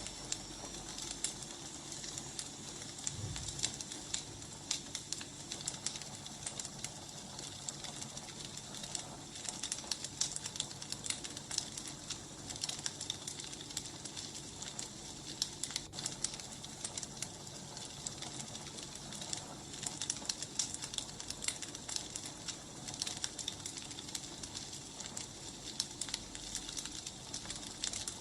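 Firewood burning with a steady crackle, many small irregular pops and snaps over a low hiss.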